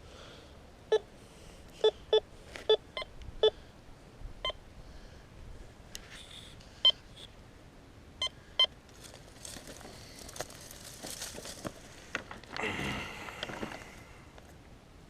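Metal detector giving short, sharp target beeps, about ten over the first nine seconds at uneven spacing. After that comes a stretch of rustling and scraping, loudest about two-thirds of the way through.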